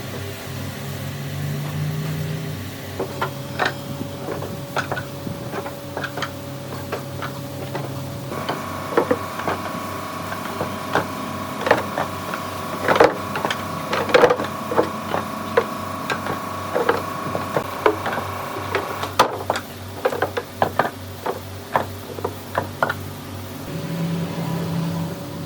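A woodworking machine running with a steady hum that steps higher about eight seconds in and drops back late on, with frequent sharp wooden knocks and clatters throughout.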